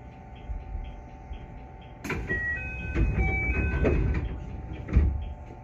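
JR West 221 series electric train running, heard from inside the car: a steady hum with a light ticking about three times a second. About two seconds in, a louder rush of running noise starts and lasts roughly two seconds, and there is a single thump near the end.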